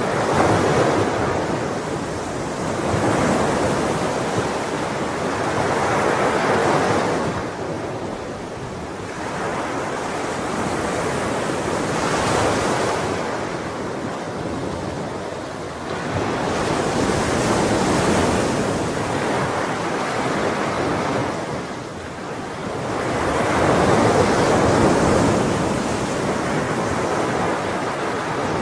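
Ocean waves breaking and washing on the shore, a continuous surf that swells and eases every few seconds, with a louder surge near the end.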